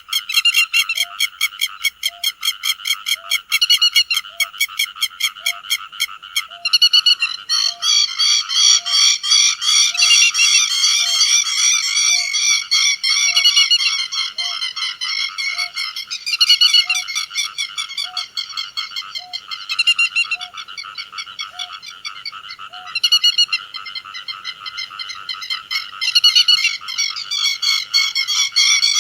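Grey-headed lapwings calling: rapid, sharp repeated call notes from several birds overlapping into a dense chorus that swells and eases back several times.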